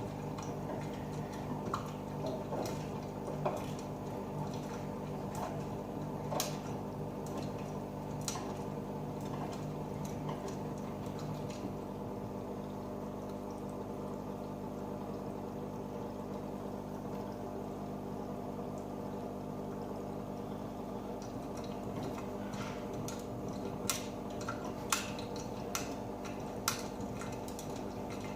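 AEG Öko-Lavamat 88840 washing machine washing: steady motor hum with water sloshing and dripping in the drum. There are scattered sharp clicks, with a few stronger ones near the end.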